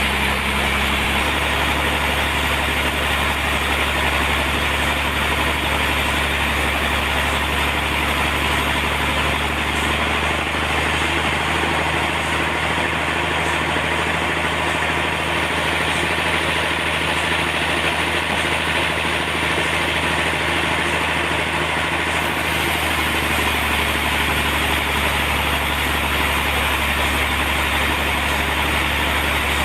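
Sawmill machinery running: a loud, steady engine drone that goes on without a break, its low hum shifting slightly about a second in and again near the end.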